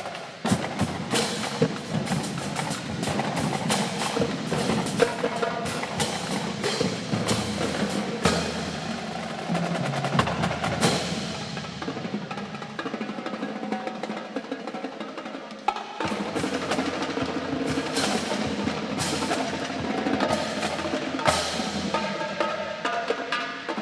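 Marching drum line playing a battle cadence: snare drums, tenor drums and bass drums in fast strokes and rolls with sharp clicks, easing briefly about two-thirds of the way through before coming back in full.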